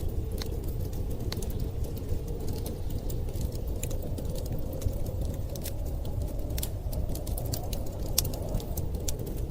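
Wood fire crackling, with scattered sharp pops, over a low steady rumble of storm wind.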